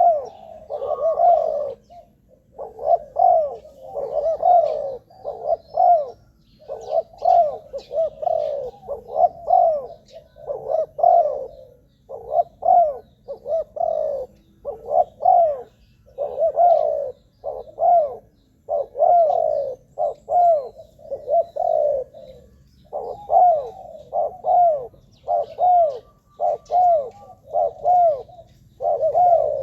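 Spotted dove cooing over and over, its phrases of arched, mellow notes following one another about every second or so, with only brief pauses.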